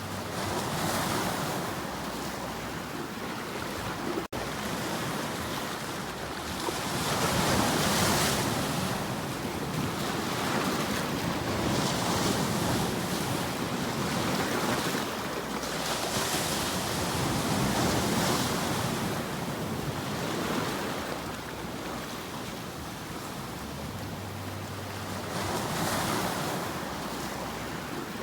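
Ocean waves washing on a shore, a hissing surge that swells and falls back every few seconds. A brief dropout cuts the sound for an instant about four seconds in.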